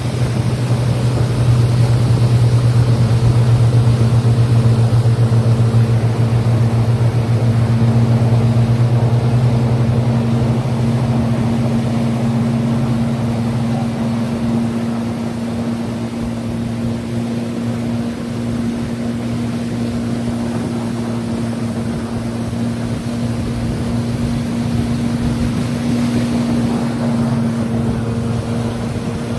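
Motorboat engine running steadily under way, heard from on board, with a steady hum over the rush of water and air; its tone shifts slightly about halfway through.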